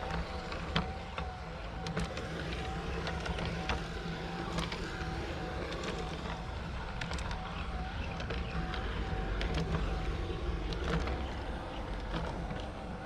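G gauge model locomotive running on the garden track: a steady motor hum with a slightly wavering tone and scattered sharp clicks from the wheels on the rails.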